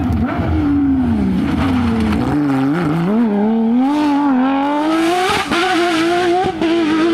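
Porsche 911 rally car's flat-six engine working hard on a stage: the revs drop off as it slows, then climb steadily under acceleration. There is a quick gear change about five seconds in, after which the engine holds at high revs.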